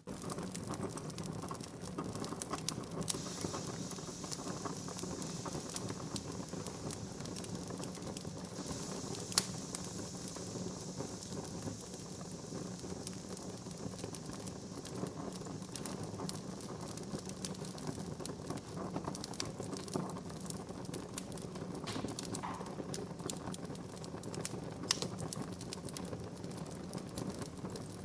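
Wood fire burning in a fireplace: dense, irregular crackling and popping over a steady low rumble of flame. A hiss rises for several seconds early on, and one sharp pop about nine seconds in stands out above the rest.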